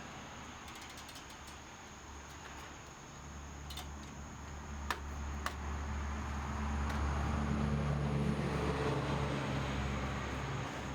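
Sharp metallic clicks from hand tools working on the brake assembly, over a low steady rumble that builds from about three seconds in and fades near the end.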